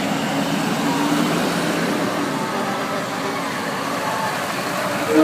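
Large trucks passing slowly, a steady mix of engine and traffic noise.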